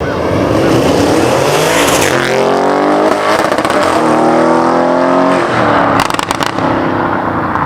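Audi RS7's twin-turbo V8 through an ARMYTRIX valved full exhaust, accelerating hard. The pitch climbs, breaks off and climbs again, then a quick run of sharp pops and crackles comes about six seconds in.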